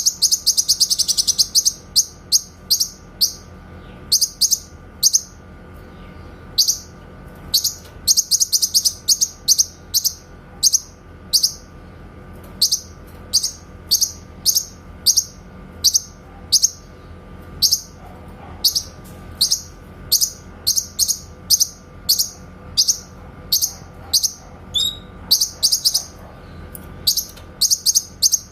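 Cucak kinoy singing its 'tembakan' (shooting) call: short, sharp, high notes fired in quick volleys of several notes a second, with brief pauses between volleys. A faint steady hum sits beneath.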